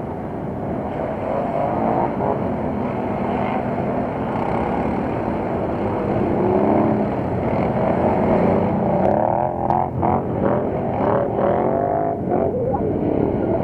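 Several ATV engines revving hard as the quad bikes race past through mud, their pitches rising and falling over one another. The sound builds after the first couple of seconds and is busiest in the second half.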